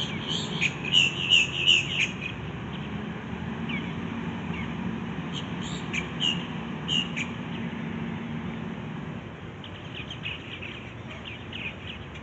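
Birds chirping in quick irregular runs of short notes, loudest in the first two seconds, again briefly around the middle and fainter near the end, over a steady low engine hum.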